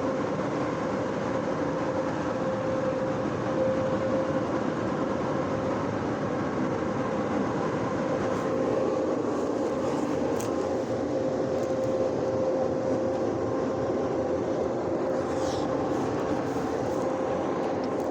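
Car wash dryer blowers running steadily, heard from inside the car, with a constant hum under the rush of air as they blow water off the car.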